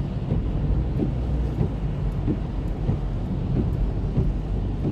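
Car driving, heard from inside the cabin: a steady low drone of engine and tyres on the road, with faint short knocks recurring about every two-thirds of a second.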